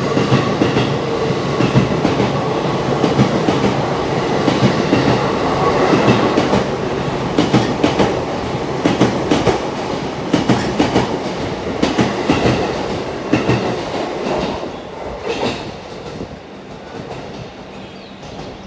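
Keihin-Tohoku Line E233 series electric train passing through the station without stopping: a steady rumble of the cars with rapid, repeated wheel clacks over the rail joints. It fades away from about fourteen seconds in as the last car leaves.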